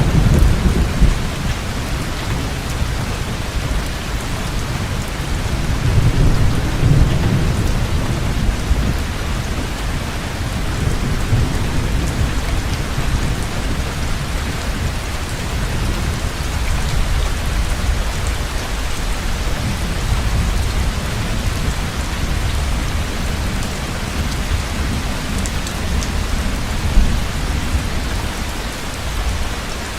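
Heavy rain pouring steadily, with low rolling thunder rumbling underneath that swells around six to eight seconds in. A single short sharp peak comes near the end.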